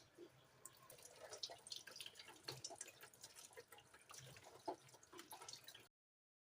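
Faint, irregular water drips and splashes with small clicks, as at a kitchen sink, cutting off abruptly near the end.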